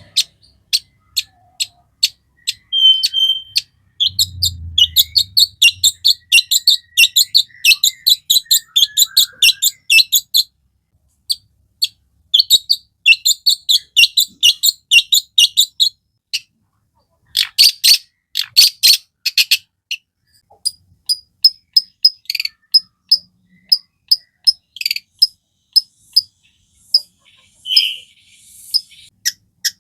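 Long-tailed shrike (cendet) singing a harsh, rapid song full of mimicked notes: spaced sharp notes, then long dense chattering runs, a few buzzy calls, and near the end a string of short high whistled notes.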